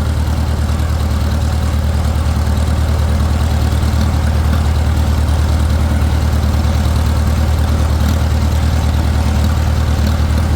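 Farmall 400 tractor's four-cylinder gasoline engine running steadily under way, a low even drone. The engine has a carburettor fault, which the owner takes for an air leak, that keeps it from running off choke.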